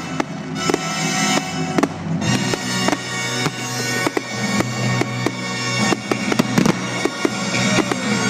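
Fireworks display: a rapid run of sharp bangs and crackles over music with steady held tones, and a falling whistle near the end.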